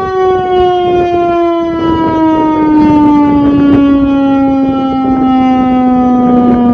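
Severnside outdoor warning siren sounding after a repair test, its single loud tone falling slowly and steadily in pitch as it runs down.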